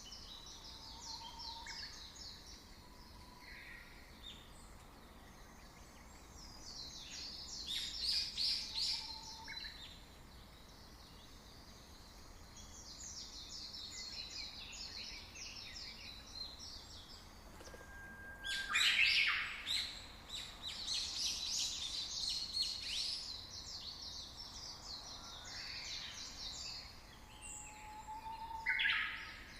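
Birds chirping and singing in repeated bursts of rapid high chirps, with a few short whistled notes between them, over a faint steady hiss.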